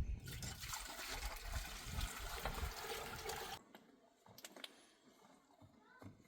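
Steady rush of running water, with some low rumble, that cuts off abruptly about three and a half seconds in. Only a few faint clicks and knocks follow.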